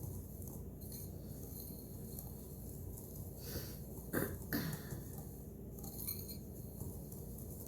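Wire whisk mixing dry powder in a bowl, quiet, with a few short clinks of the whisk against the bowl a little past halfway.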